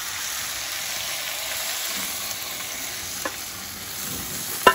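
Fish frying in hot coconut oil in a cooking pot, a steady sizzle, with a light tap about three seconds in and a sharp knock near the end.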